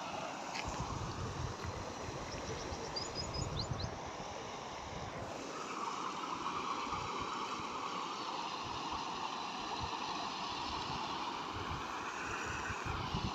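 Rain-fed seasonal stream rushing steadily, water running over a low causeway, with wind buffeting the microphone. A few faint high chirps about three seconds in.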